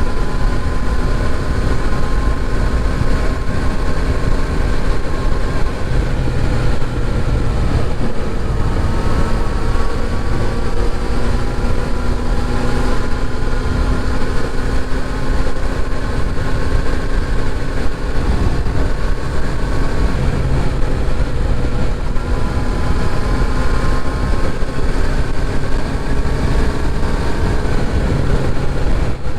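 Kawasaki Z900RS's inline-four engine running while riding at a steady pace, its pitch drifting gently up and down, with wind rumble on the microphone.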